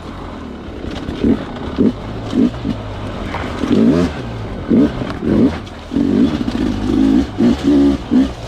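Sherco two-stroke dirt bike engine in repeated short throttle blips, its pitch rising and falling a dozen or so times over a low steady running note.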